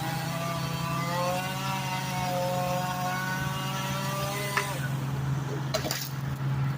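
Engine of tree-work machinery running steadily with a low drone, its pitch wavering slowly; a few sharp knocks near the end.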